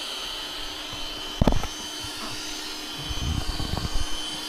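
Lubluelu SL60 Plus robot vacuum running, a steady high whine over a faint hum and a wash of suction noise. There is a single sharp knock about a second and a half in, and some low rumbling near the end.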